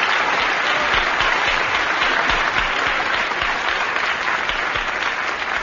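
Studio audience applauding, a dense steady clapping that begins to die away near the end.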